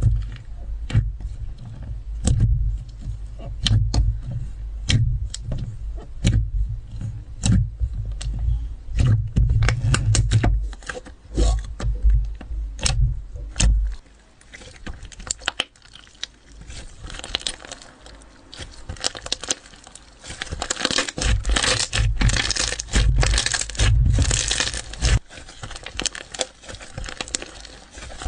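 Slime being squished and poked by hand: a run of sharp pops and clicks over heavy low thuds. About halfway through it turns to denser crackling.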